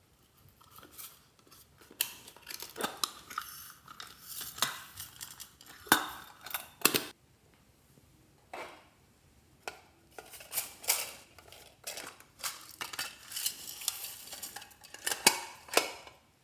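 Glossy slime being mixed, with irregular sticky clicks, pops and crackles in clusters, and a quiet spell of a couple of seconds midway.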